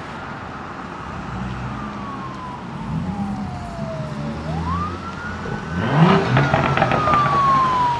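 A siren wailing: its pitch slides slowly down, sweeps quickly back up about halfway through, then falls again. Under it a car engine runs and revs up about three-quarters of the way in, with a burst of sharp clicks at the loudest moment.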